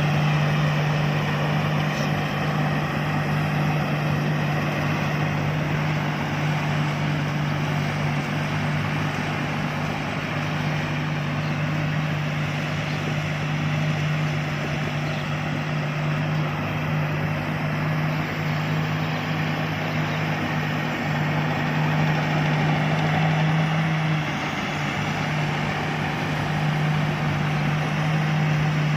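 Combine harvester engine running steadily at a constant speed, with a brief dip in level about three-quarters of the way through.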